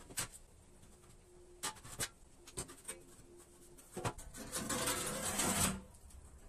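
A few scattered light knocks and clicks, then a rough scraping or rubbing for about a second and a half near the end.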